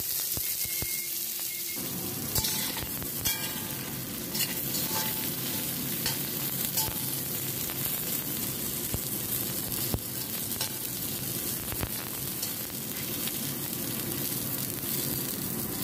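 Crab pieces and ginger sizzling in hot oil in a steel pan while being stirred with a spatula, with short clinks of the spatula against the pan now and then. The sizzle grows fuller about two seconds in.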